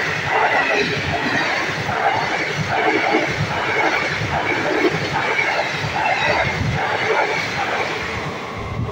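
Express train's passenger coaches running past at speed close by: a loud, steady rumble of wheels on the rails with repeated clatter, easing a little as the last coach goes by near the end.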